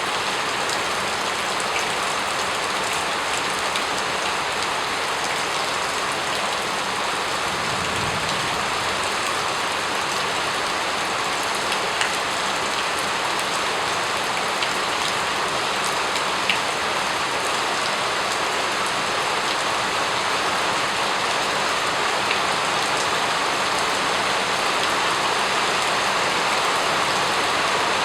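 Steady rain falling on a surface, a dense even patter with a few sharper drops standing out.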